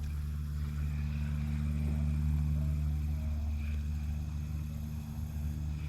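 A steady low mechanical hum, like an engine running at a constant speed.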